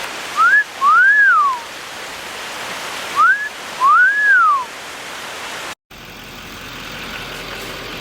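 A man wolf-whistles twice, each a short rising note then a longer rise-and-fall, as a sign of admiration. A creek rushes steadily behind. Near the end the sound drops out for a moment and a steady rush comes back.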